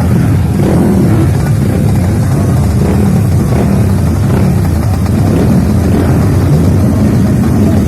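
Motocross dirt bike engines running, a loud, steady rumble.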